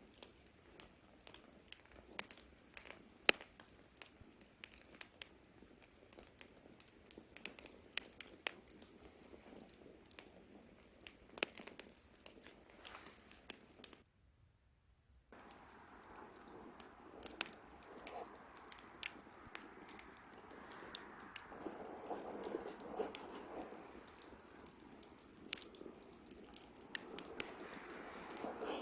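Wood campfire crackling with irregular sharp pops. The sound cuts out for about a second midway, then the pops return over a soft steady rushing noise.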